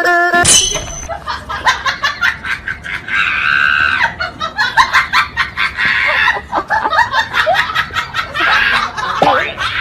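A person laughing hard in quick repeated bursts, with a sustained high shriek about three seconds in.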